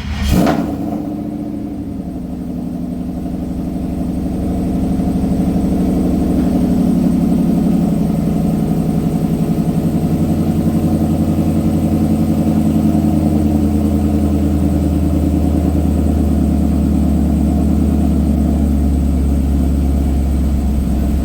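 Pickup truck engine idling steadily with a rapid, even exhaust pulse, after a short loud burst in the first half second.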